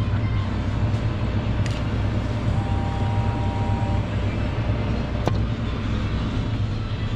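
Steady low rumble of wind and road noise picked up by a bicycle-mounted action camera while riding, with a brief steady two-note tone in the middle and a single sharp click about five seconds in.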